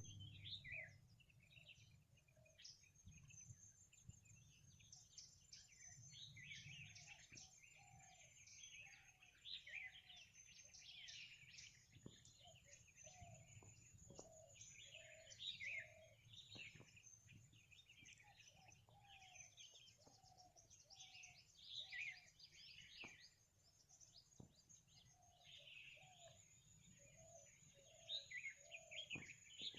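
A faint morning chorus of several birds: many short high chirps and trills overlapping throughout, with a lower-pitched bird repeating short notes in runs of about two a second.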